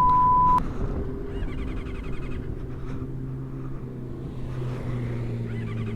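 A censor bleep cuts off about half a second in. Then a motorcycle engine idles steadily.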